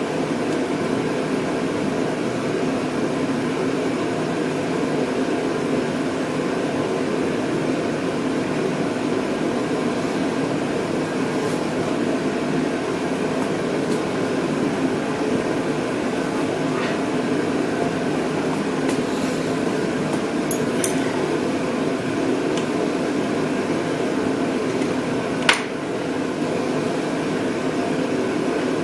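Steady mechanical background hum, like a fan or air conditioner, with a few light clicks of hand tools and one sharper click near the end.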